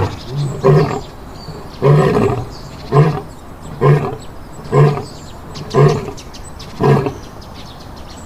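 Lion roaring: a series of short, deep grunting calls at about one a second, the last one about seven seconds in, as at the close of a roaring bout.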